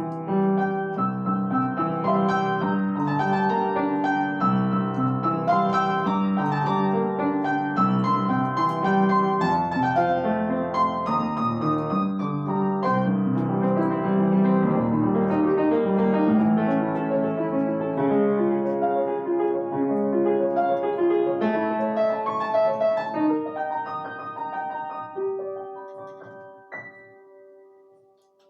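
Solo piano playing a gentle piece. The music thins and softens toward its close, with a last high note and a held final note dying away to silence.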